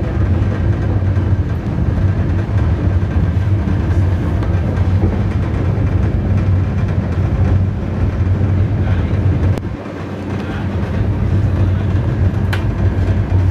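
A passenger train running over a bridge, heard from inside the coach: a loud, steady, deep rumble of wheels on the track and bridge deck. There is a sharp click about nine and a half seconds in and another near the end.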